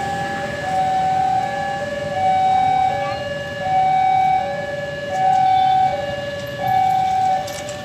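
Railway level-crossing warning alarm sounding: two steady tones alternating high-low, each held about three-quarters of a second, repeating evenly, signalling that a train is approaching and the crossing is closing.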